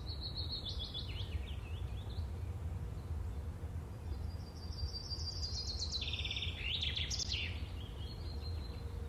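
Birds chirping in quick trilling runs over a steady low rumble. One run drops in pitch over the first couple of seconds, and a busier run of chirps comes about halfway through.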